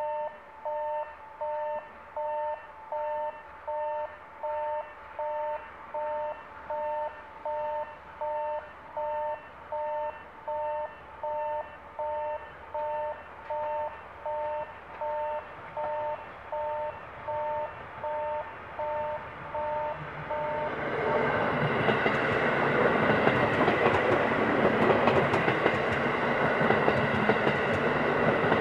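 An electronic railway warning beeper sounds steadily in two tones at once, about once a second. About twenty seconds in, an electric multi-car train passing close by takes over with a loud, continuous noise of wheels on rails.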